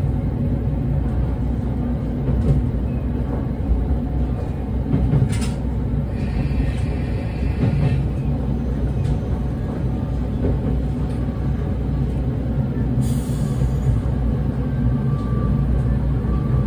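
Diesel railcar running along a single-track rural line, heard from on board: a steady low rumble of engine and wheels on rail, with a few sharp clicks over the rails and a brief higher-pitched sound about six seconds in.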